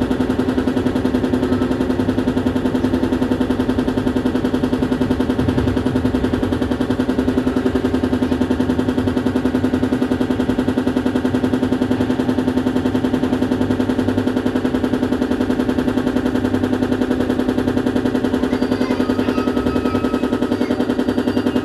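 Paris Métro MP05 rubber-tyred train running with a rapid, even rattling over a strong steady hum: an abnormal noise from the train.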